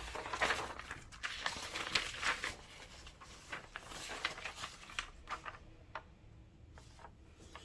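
Rustling and scattered light clicks of objects being handled, busiest in the first three seconds and then sparser.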